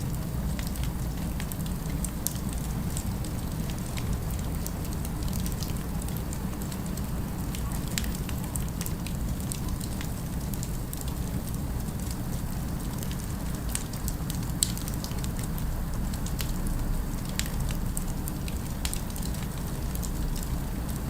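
Fireplace fire crackling, with irregular sharp pops scattered through it over a steady low rumble.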